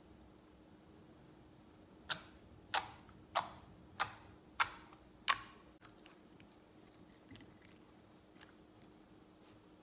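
Homemade slime being handled for ASMR: a run of six sharp pops about half a second apart, with faint small clicks and sticky sounds around them.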